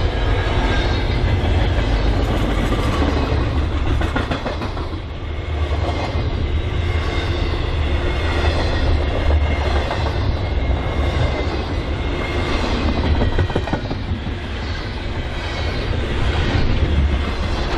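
Freight train cars rolling past: a steady rumble and rattle of steel wheels on rail, swelling and dipping about every second and a half.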